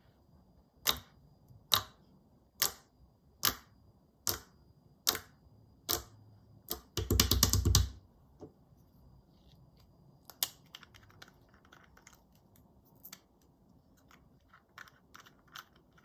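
Clear slime being handled: eight sharp pops come about one a second, then a second-long burst of dense crackling, then scattered soft crackles and clicks.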